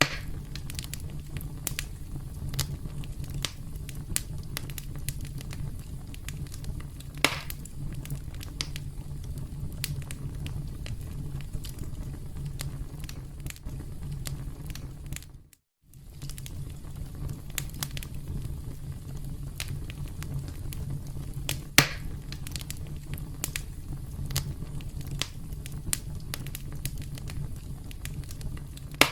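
Campfire crackling: a steady low rumble of burning wood with frequent small snaps, and two louder pops, about seven seconds in and again about twenty-two seconds in. The sound cuts out completely for about half a second around the middle.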